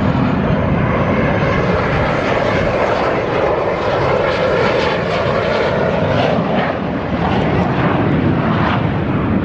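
Aircraft flying past at an air show: a loud, steady engine noise.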